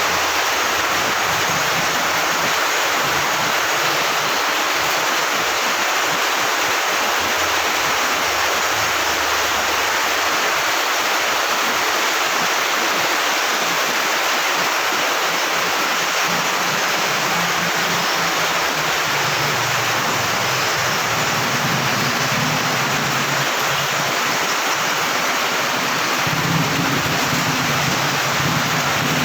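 Heavy tropical rain pouring down steadily, a dense even hiss of rainfall.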